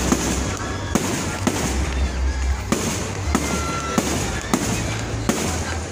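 Fireworks going off in a steady barrage: sharp bangs about two a second over continuous crackling, with a few short whistles from rising shells.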